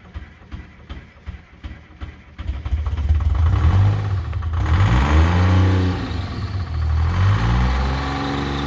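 Timberjack skidder's diesel engine starting cold: it turns over slowly with an even chugging for about two seconds, then catches and runs loud. It revs up and settles twice, its pitch rising and falling.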